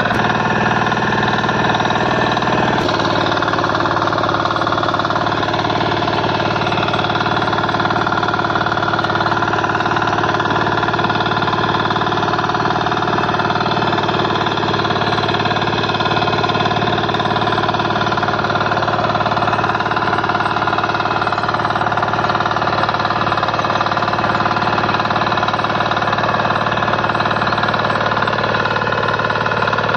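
KisanKraft 406D power tiller's 418 cc diesel engine running steadily, with a slight change in its note and a click about three seconds in.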